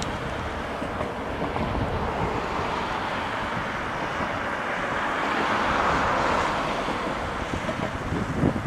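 Ichibata Electric Railway 2100 series electric train running past on the line, a steady rolling noise that swells to its loudest a little past the middle and then eases, with wind buffeting the microphone.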